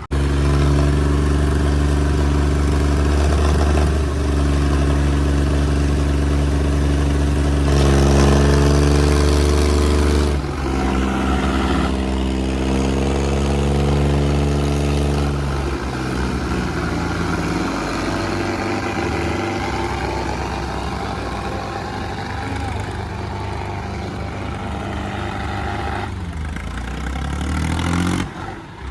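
Tractor diesel engines running hard at high revs under heavy pulling load in a tractor tug-of-war, the note shifting up and down several times and falling away near the end.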